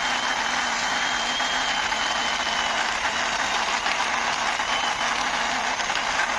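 Steady mechanical running noise, like an idling engine, with a faint high whine held throughout.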